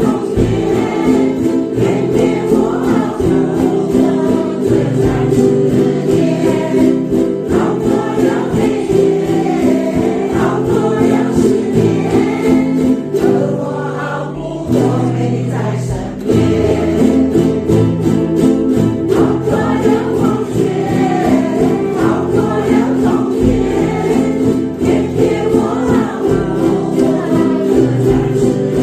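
A group singing together to strummed ukuleles, with a brief lull about halfway through before the singing and playing carry on.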